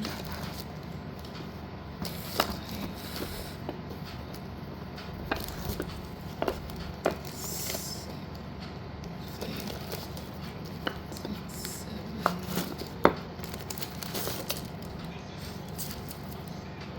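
Packets of slate-pencil pieces being handled: scattered light clicks and taps, with a brief rustle about seven seconds in, over a steady low hum.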